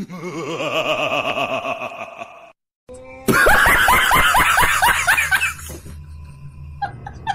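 Wavering sing-song sound for the first couple of seconds, a brief cut, then loud, rapid laughter from about three seconds in that fades near the end.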